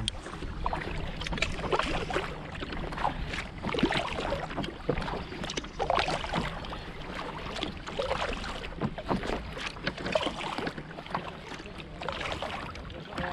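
Kayak paddling: irregular splashes and drips as the paddle blades dip in and out of the water, over a low rumble of wind on the microphone.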